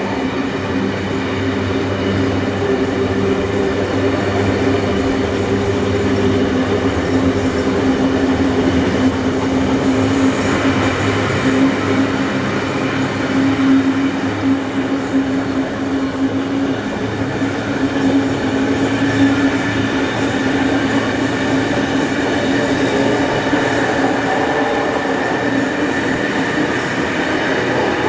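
A train hauled by steam locomotives 3526 and 3265 running along the track, heard from on board: a steady rumble of wheels on rail, with a steady droning tone beneath it.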